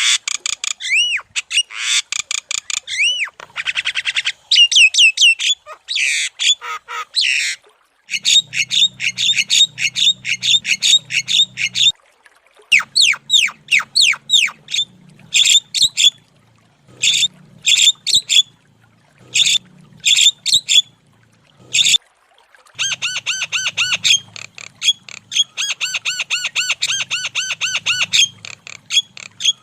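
Javan myna (jalak kebo) calling in fast runs of sharp, high, down-slurred squawks and whistles, coming in bursts with short pauses between them.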